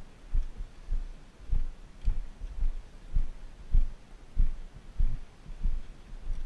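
Footsteps at a steady walking pace, heard as dull low thumps about every 0.6 seconds.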